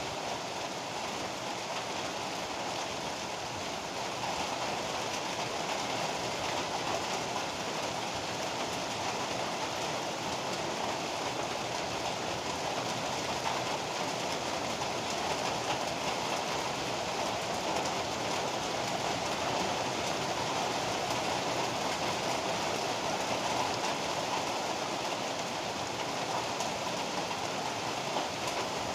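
Heavy rain falling steadily as a dense, even hiss, growing a little louder about four seconds in.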